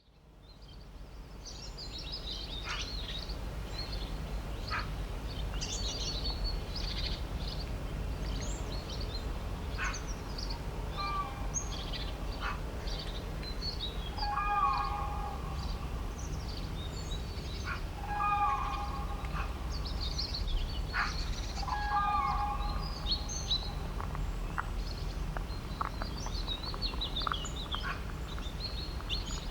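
Many birds chirping and singing together, with a louder, lower call repeated four times, about every three to four seconds, through the middle. A steady low rumble runs underneath, and the sound fades in at the start.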